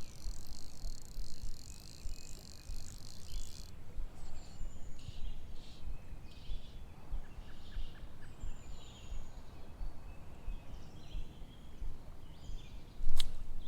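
A high-pitched insect trill buzzing steadily, then cutting off abruptly about four seconds in, over a low steady outdoor rumble; a few faint, short bird chirps follow.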